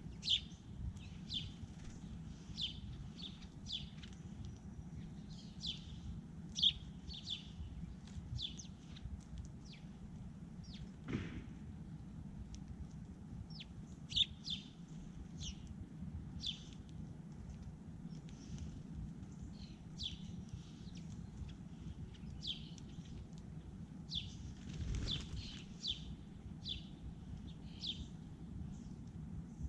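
Small songbirds at a feeder chirping over and over, short sharp downward chirps about once a second, with two brief whooshes and a steady low rumble underneath.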